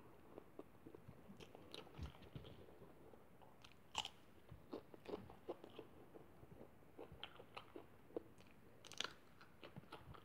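A person chewing and biting food close to the microphone: soft irregular crackles of chewing, with sharper crunchy bites about four seconds and nine seconds in.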